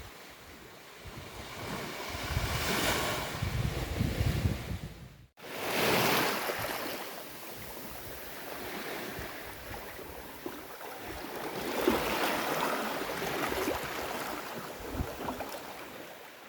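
Sea waves breaking and washing up a beach, swelling and falling back every few seconds, with wind rumbling on the microphone in the first few seconds. The sound cuts out for an instant about five seconds in.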